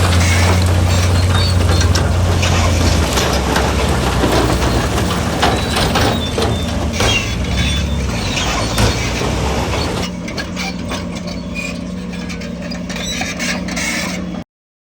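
Heavy diesel construction machinery running, with clanking and knocking throughout. The engine note changes about three seconds in, and the sound drops quieter about ten seconds in. It cuts off suddenly near the end.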